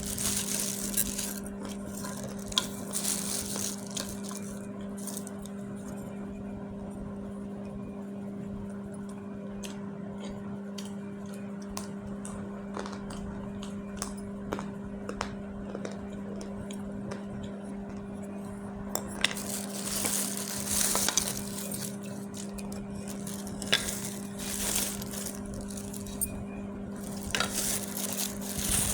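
Dried clay being crushed and crumbled: crisp crackling crunches with scattered sharp clicks, in spells at the start and again over the last ten seconds. A steady low hum runs underneath.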